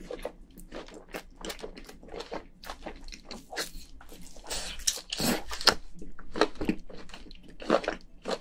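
A person chewing and biting cooked crayfish meat, with a quick, irregular run of wet smacks and clicks from the mouth.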